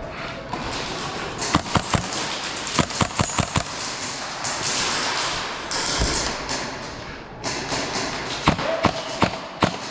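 Airsoft gunfire: sharp cracking shots in quick clusters, about a second and a half in, around three seconds in, and again near the end, with a brief hissing rush in between.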